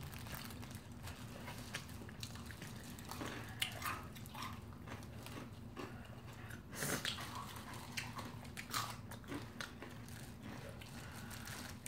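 Close-miked chewing and biting on sauced fried chicken, with scattered small crunches and clicks; the loudest comes about seven seconds in. A faint steady low hum runs underneath.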